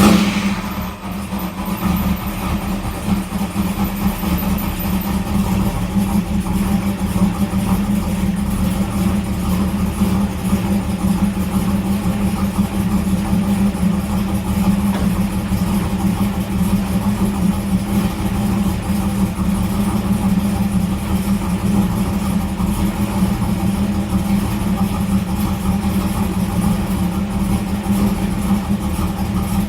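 1994 Camaro's newly installed LT1 5.7-litre V8 catching at once and settling into a steady idle on its fresh start-up.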